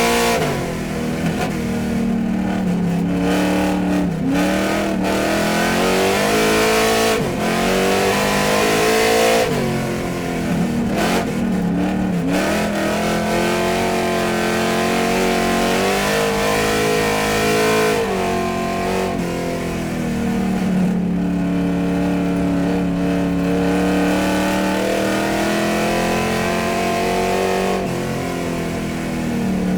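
Car engine running and revving, its pitch dipping and climbing several times in the first twelve seconds, then holding a steadier note that swells slowly.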